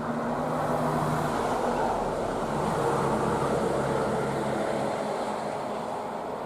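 Motor vehicle passing on the road: engine hum and tyre noise that swell in the first few seconds and then fade.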